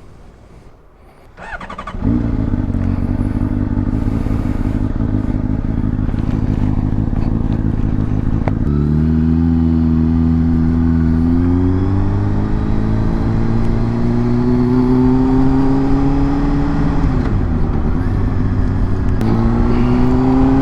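Honda CBR RR sportbike's inline-four engine comes in loud about two seconds in and runs steadily, then pulls away with its pitch climbing as it accelerates. A short drop in pitch near the end marks a gear change before it climbs again.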